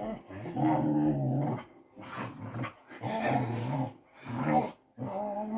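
A dog making a string of drawn-out, pitched growling vocalizations, about five in a row with short gaps between them. They are likened to a Wookiee's growl or to a Scania truck changing gear.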